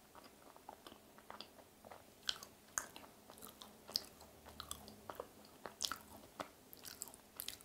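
Faint, close-miked chewing of a macaron with the mouth closed: irregular soft mouth clicks and smacks.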